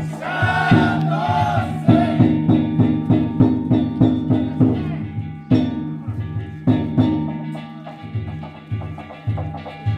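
Danjiri festival music: drums and hand gongs struck in a quick, driving rhythm, with the gongs ringing on between strikes. A voice calls out briefly near the start.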